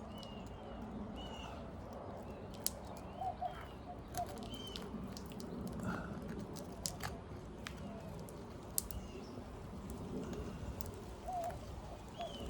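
Asphalt shingle seal strips being worked loose with a pry bar: scattered sharp clicks and crackles as the stuck sealant lets go. Birds chirp in the background.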